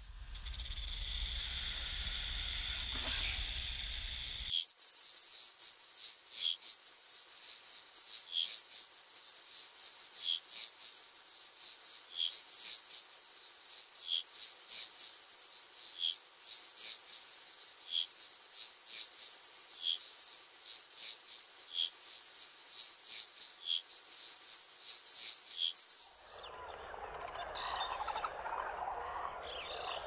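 A loud rushing hiss cuts off abruptly about four seconds in and gives way to a rainforest insect chorus: a steady high-pitched drone with a sharp chirp repeating about twice a second. Near the end the insects stop and a softer, lower rushing sound comes in.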